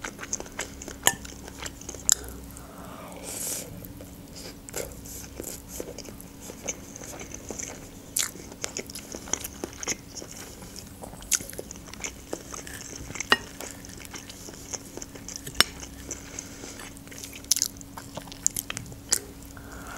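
Close-up chewing and mouth sounds of a person eating a forkful of omelette with fries, with many short, sharp clicks. A metal fork cuts into the omelette and taps the plate at the start and again near the end.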